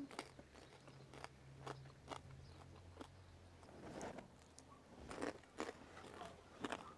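A person biting into and chewing crisp food close to the microphone, with irregular sharp crunches every second or so.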